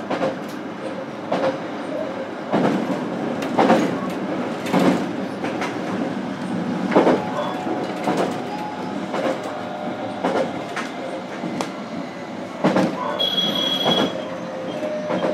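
Onboard running sound of a JR Kyushu BEC819 series DENCHA battery-electric train, heard from inside the motor car. The wheels knock over rail joints about once a second above a steady rumble, with a short high-pitched tone about 13 seconds in.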